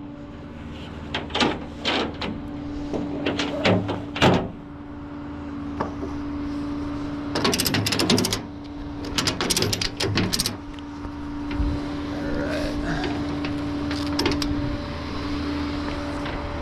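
Flatbed tow truck idling with a steady hum, while clusters of sharp knocks and clanks come in bursts, the car being pushed and rigged onto the bed.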